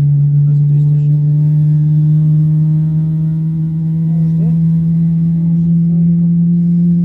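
General Electric GE90 turbofan on a Boeing 777-300ER spooling up during engine start, heard from inside the cabin: a loud steady drone over a low rumble, its pitch rising slowly.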